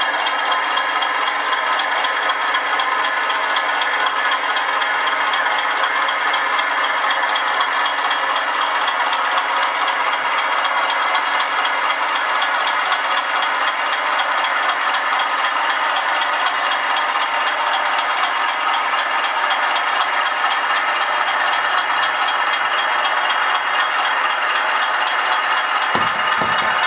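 OO gauge Bachmann Class 20 model diesel locomotive running along the track under DCC control, a steady rattling mechanical running sound.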